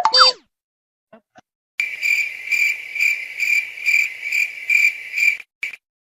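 Cricket-chirping sound effect over otherwise silent audio: a steady, high chirp pulsing about two and a half times a second for about three and a half seconds, the comic 'crickets' cue for an awkward pause. A brief falling whistle-like glide sounds at the very start.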